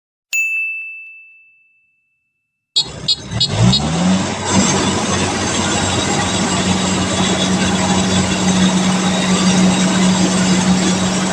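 A single chime rings and fades over about two seconds. After a short silence, a few clicks come, then the diesel engine of a Kubota DC-70 combine harvester. Its pitch rises for about a second and then holds steady.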